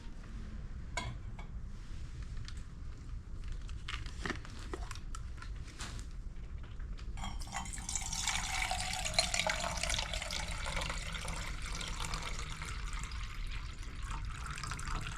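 A few light clicks and knocks of gear being handled, then about seven seconds in a steady rushing starts and carries on: water being poured into a camp pot to heat for hot chocolate.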